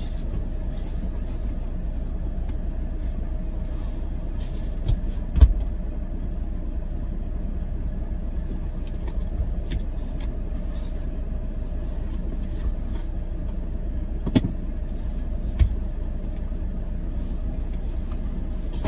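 Semi-truck engine idling steadily, heard from inside the cab, with a few short knocks and thumps, the loudest about five seconds in.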